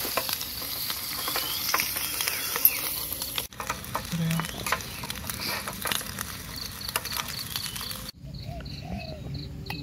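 Sausages sizzling as they fry in a pan of oil, with a metal spoon clicking and scraping against the pan as they are turned. The sizzle drops away about eight seconds in.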